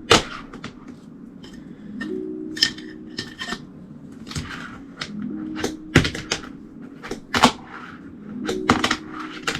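Wooden fingerboard being skated through flip tricks: sharp clacks as the tail pops and the board lands, with a steady hum of its bearing wheels rolling between them.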